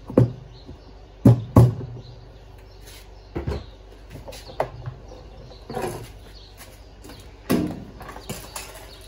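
Irregular knocks and thumps, about eight of them, the loudest near the start and about three-quarters of the way through, several trailing a short low ring.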